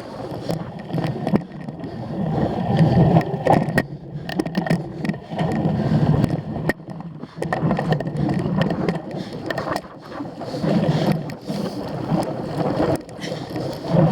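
A cyclocross bike ridden hard over rough ground: wind rushing over the microphone and the bike rattling, with many sharp knocks throughout.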